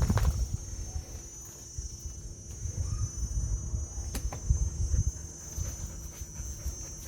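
Steady, high insect chorus of crickets, with irregular low thumps and rustling from handling close to the microphone.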